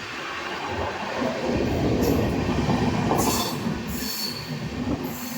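Train running on the rails, a rumble that swells about a second and a half in and eases off near the end.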